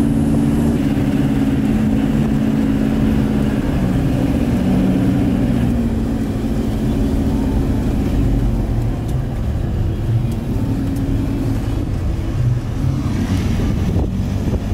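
Four-wheel-drive vehicle's engine running under load, heard from inside the cabin over a low road rumble, its note shifting up and down in pitch.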